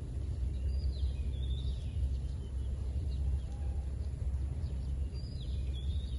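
Steady low outdoor rumble with two short bursts of high, quickly falling bird chirps, one about a second in and one near the end.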